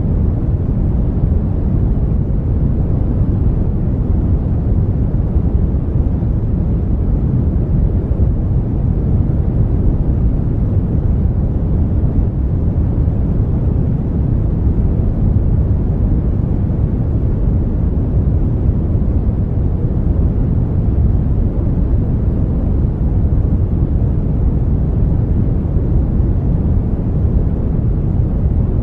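Brown noise: a steady, deep rushing hiss, strongest in the bass and fading toward the treble, without change.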